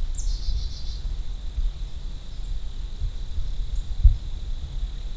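A small songbird's short call, a high note dropping into a quick run of notes, just after the start and again at the very end. Under it runs a steady low rumble of wind on the microphone, with a single bump about four seconds in.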